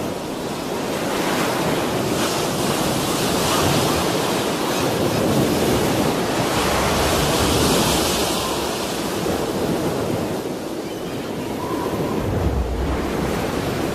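Strong coastal wind and surf: a loud, rushing noise that swells and eases every few seconds.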